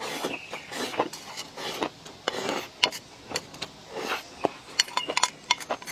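Close-up eating sounds: a person chewing with many wet mouth clicks and smacks, broken by several short noisy bursts.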